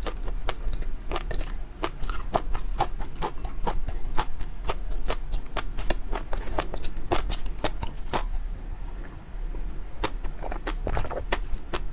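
Close-miked eating sounds: a person chewing, with a quick, irregular run of sharp wet mouth clicks and smacks, several a second, easing briefly about nine seconds in.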